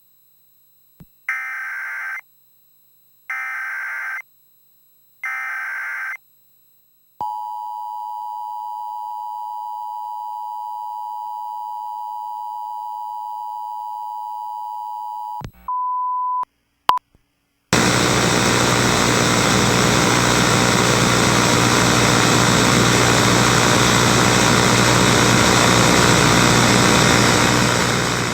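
Emergency Alert System broadcast signal: three short warbling data bursts about a second apart, then the steady two-tone attention signal for about eight seconds and a brief single beep. Then loud static hiss takes over, like a lost broadcast signal.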